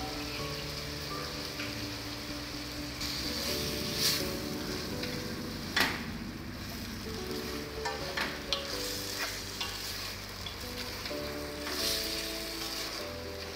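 Marinated lung pieces sizzling in oil and tomato masala in a pressure cooker while a wooden spoon stirs them, with a few sharp knocks of the spoon against the pot.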